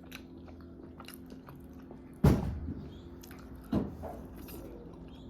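Close-up eating: chewing and biting of a sauce-dipped boiled egg, with small wet mouth clicks throughout and two louder mouth sounds about two and four seconds in.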